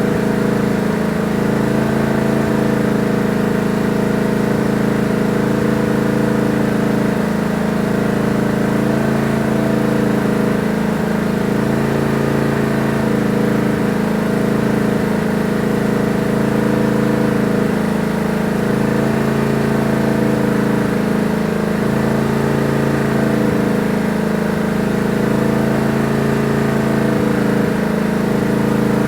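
Tractor engine running steadily at idle, its note wavering slightly in a regular cycle about every two seconds.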